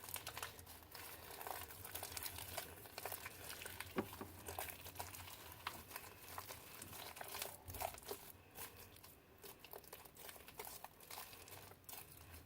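Homemade glue slime being squished and pulled in the hands: faint, irregular sticky crackling and small clicks.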